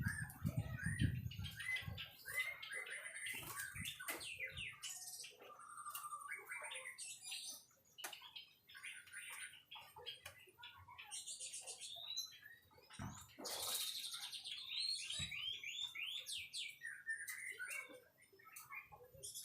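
White-rumped shama singing a rapid, varied song of whistles, trills and chirps, with low rumbling knocks in the first two seconds.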